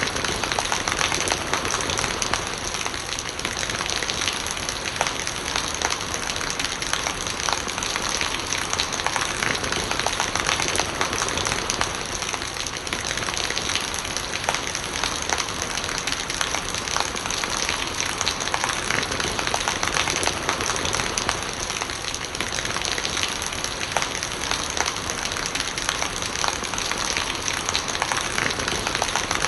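Steady rain falling, with many individual drops pattering on surfaces and an even hiss throughout.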